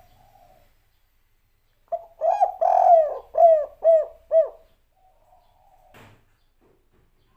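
Spotted dove (tekukur/derkuku) cooing one song phrase about two seconds in: a few short low coos and a longer drawn note, then three evenly spaced short 'kuk' notes, the 'kuk 3' ending that keepers prize.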